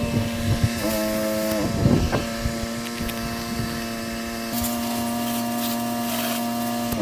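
Pressure-washing equipment running steadily, a motor drone with a hiss of spraying water over it; its pitch sags briefly about two seconds in, then holds steady.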